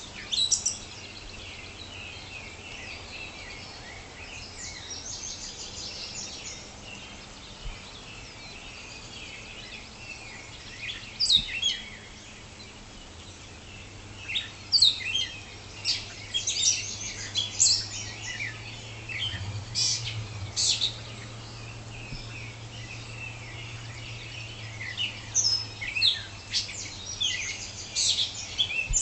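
Dawn chorus of several songbirds singing, with short high chirps and trills coming in clusters, busiest through the second half, over a faint steady low hum.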